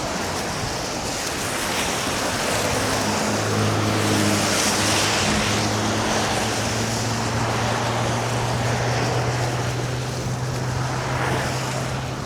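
Wind rushing over the microphone and road noise from an electric scooter riding downhill through snow and slush. A steady low hum comes in about three seconds in and holds.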